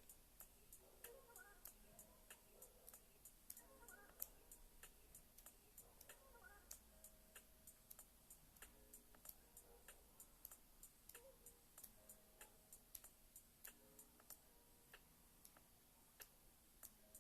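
Faint, rapid clicking, several small sharp clicks a second, over a low hum.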